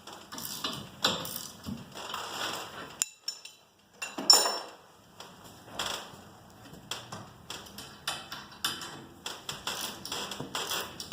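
Irregular metallic clinks and knocks of a steel winding bar and tools working at a garage door torsion spring's winding cone, with one louder clank about four seconds in.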